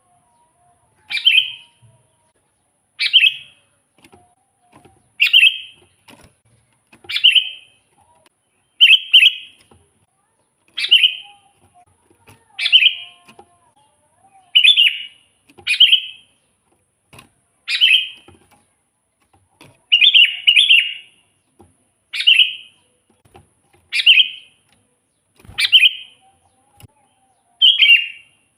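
Sooty-headed bulbul calling over and over: a short, bright, chirpy phrase repeated about every two seconds, sometimes given twice in quick succession.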